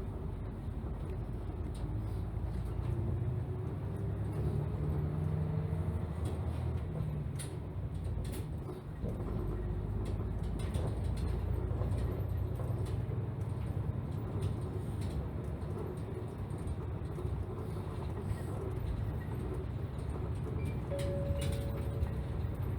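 Inside a diesel city bus on the move: steady engine and road rumble, with a few light rattles and clicks from the body.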